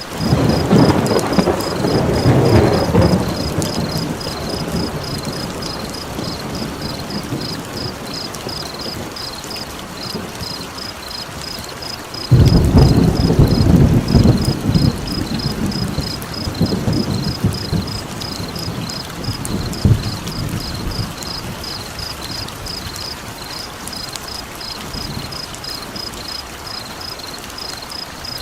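Two rolls of thunder, one right at the start and another about twelve seconds in, each rumbling and slowly fading over several seconds, over steady rain. A rapid, regular high chirping, cricket-like, runs underneath.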